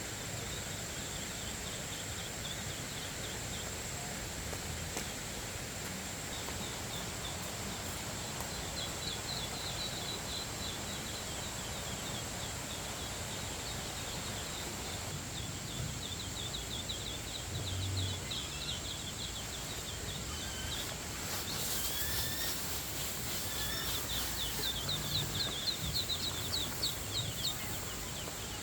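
Outdoor rural ambience: birds chirping in runs of rapid, short, high calls that come and go and are busiest near the end, over a steady high-pitched whine.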